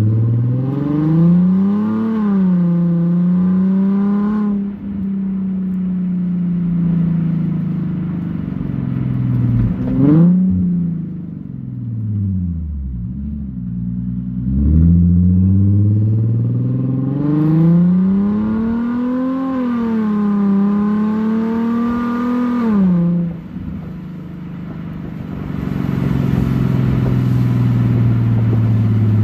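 Straight-piped 3.5 L VQ35HR V6 of a 2007 Infiniti G35x, with muffler and resonators deleted, under way. It pulls twice under throttle, near the start and for longer about halfway through, with the revs climbing and dipping back at automatic upshifts. In between and afterwards it falls back to coasting and steady cruising.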